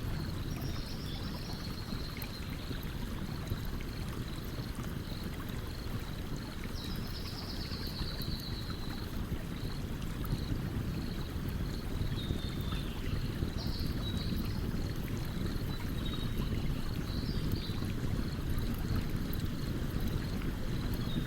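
A stream running steadily, with a campfire crackling faintly over it. Faint high-pitched chirps and short trills come every few seconds.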